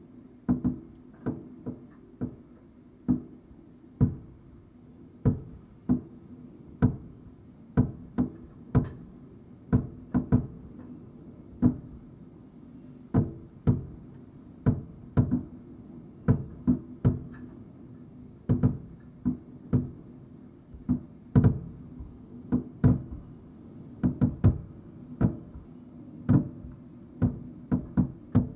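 Aerial firework shells bursting in an irregular series of dull booms, about two a second and sometimes several in quick succession.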